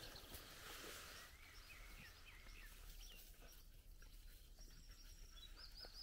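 Near silence, with a few faint, short bird chirps now and then.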